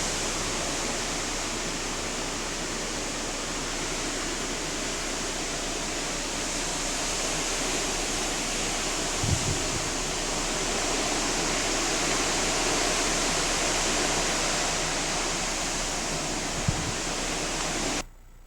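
Steady rush of hurricane wind and heavy rain, with two brief low thumps, cutting off abruptly near the end.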